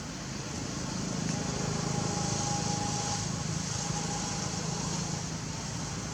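A steady low motor hum that swells over the first couple of seconds and eases off again near the end, over a continuous high hiss.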